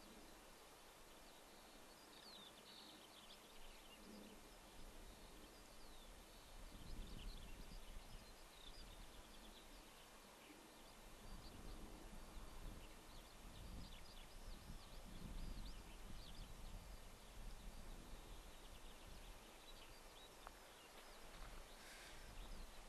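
Faint distant birdsong, many short high chirps scattered over a steady outdoor hiss, with occasional low rumbles.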